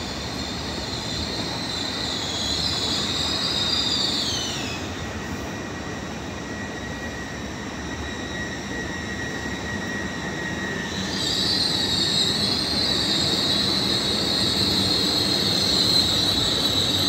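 Hitachi Class 802 bi-mode train running slowly past along the platform, with a rumble from its bogies and a high-pitched squeal as it brakes. The squeal slides down in pitch and fades about a quarter of the way in, then comes back louder for the last third.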